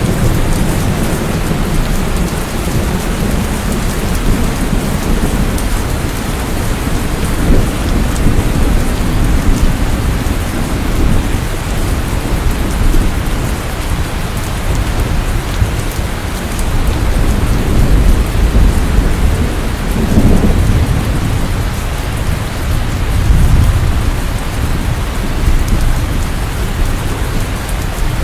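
Steady rain with low thunder rumbling underneath, swelling and fading several times.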